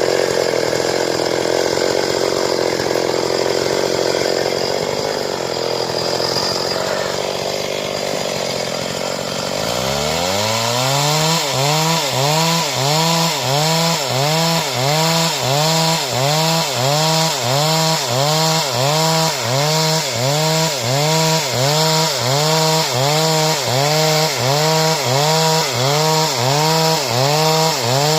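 Stihl chainsaw cutting through wood, running steadily under load for about ten seconds. The engine's pitch then starts to swing up and down in an even rhythm, a little faster than once a second, as the saw is worked through the cut.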